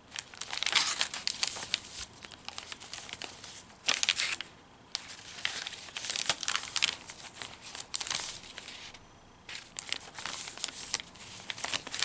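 Paper pages of a handmade junk journal being turned and handled, rustling and crinkling in several separate flurries with small sharp clicks.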